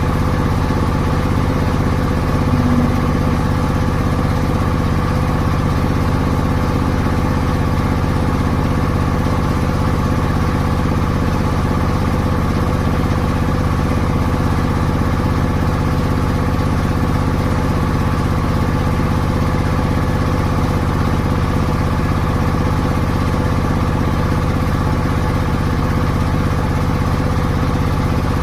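Rice mill machinery running steadily: a continuous, unchanging mechanical drone with several steady hum tones.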